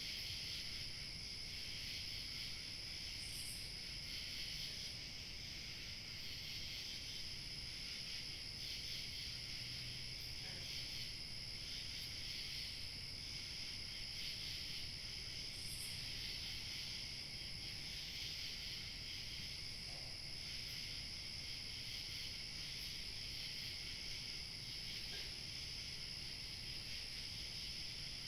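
A dense chorus of crickets chirping steadily, with a fainter, very high thin trill above it and a low rumble of light wind underneath.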